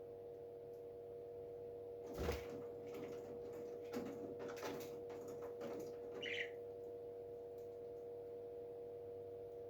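Parrot moving about, making knocks and scuffs, with the loudest knock just after two seconds in and one short chirp at about six seconds. A steady hum runs underneath.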